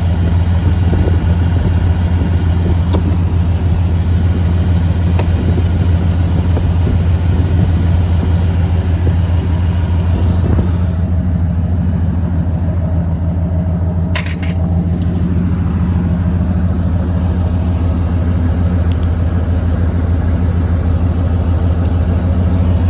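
Ford 460 big-block V8 in a 1997 F-350 dump truck running steadily with a deep, even rumble, with a single sharp click about two-thirds of the way through.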